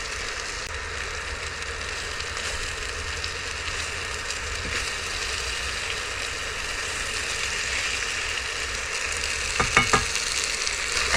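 Chicken stir fry sizzling steadily in a hot pan, with a few sharp knocks of a utensil stirring it near the end.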